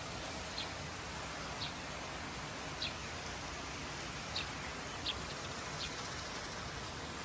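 A bird giving short, high chirps, six of them at uneven intervals, over a steady hiss of outdoor background noise.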